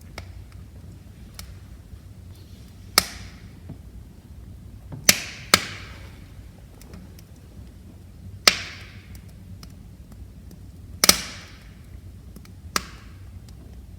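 Wood fire in a fireplace crackling: six sharp pops spread a second or three apart, two close together about five seconds in, with faint ticks between them over a low steady rumble of the flames.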